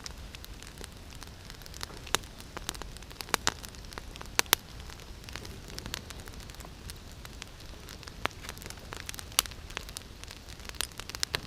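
Campfire of damp deadwood crackling, with irregular sharp pops over a steady low hiss, a few of them louder in the first half.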